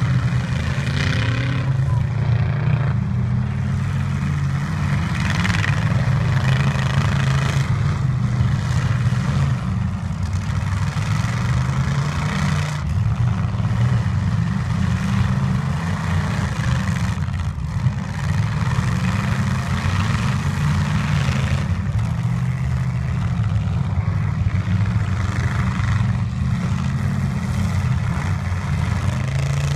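Demolition derby truck engines running and revving: a continuous low rumble that rises and falls in pitch as the trucks are driven.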